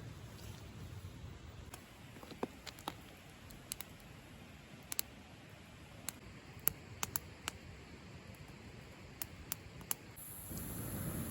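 Sparse, irregular sharp clicks and pops over a quiet background. Near the end a louder, steady rushing noise comes in.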